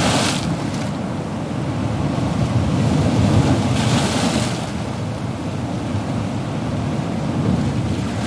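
Ocean surf: waves breaking and washing in a continuous rumble, with a brief hissing swell of spray just after the start and another about four seconds in.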